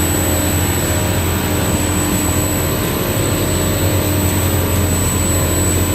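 Wide belt sanding machine running steadily: a continuous low hum and even grinding noise with a thin, steady high whine over it.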